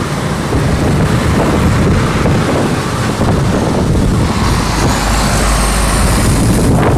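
Storm-force wind gusting and buffeting the microphone: a loud, uneven roar heaviest in the low end, with a faint rising whine about halfway through.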